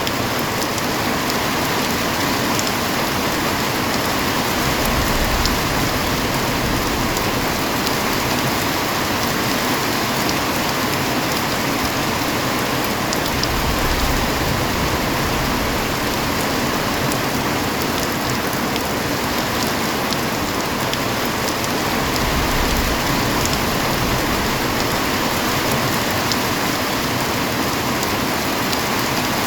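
Heavy rain falling steadily, a dense even hiss of rain on surfaces with individual drops ticking now and then.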